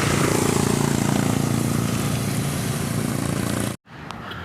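Traffic heard while cycling: a motor vehicle's engine droning close by over rushing road and wind noise, cutting off abruptly near the end at an edit.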